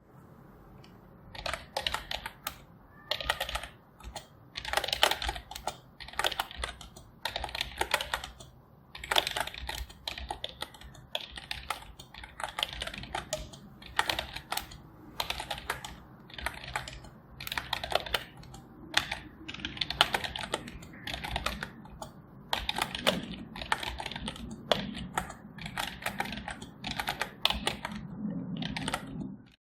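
Typing on a computer keyboard: quick runs of key clicks with short pauses between bursts, going on throughout.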